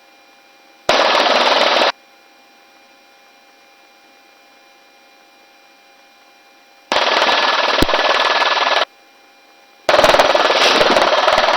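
Helicopter crew intercom keying open three times with no speech. Each time the headset microphone opens, a burst of rotor and wind rush comes through and then cuts off suddenly. Between the bursts only a faint steady intercom hum remains.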